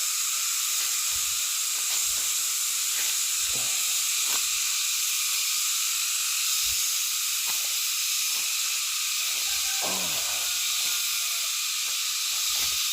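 Dense, steady chorus of night insects, a shrill hiss held on several high pitches, with faint soft thumps every second or so.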